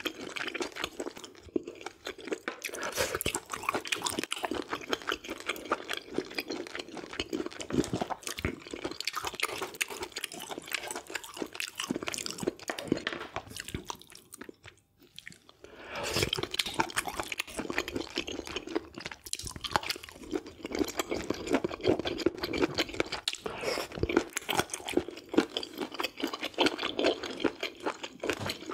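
Close-miked mukbang eating sounds: wet chewing and crunching of a mouthful of food, with a brief pause about halfway through before the chewing resumes.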